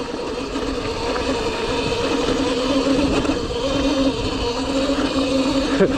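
Cake Kalk OR electric dirt bike's motor whining steadily while riding, its pitch wavering slightly, over a constant rushing hiss.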